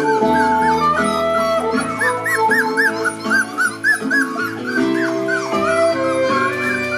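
Month-old Border Collie puppies whimpering and yipping in many short rising-and-falling cries, over background music with held notes and a bass line.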